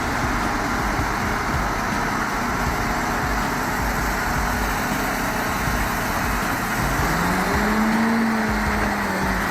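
Heavy vehicle engine running under steady noise; about seven seconds in, an engine revs up, holds, then drops back.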